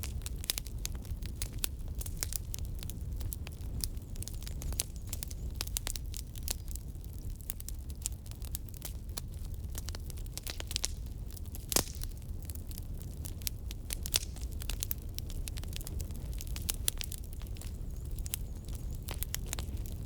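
Firewood burning, crackling and popping irregularly over a steady low rumble of the flames, with one louder pop near the middle.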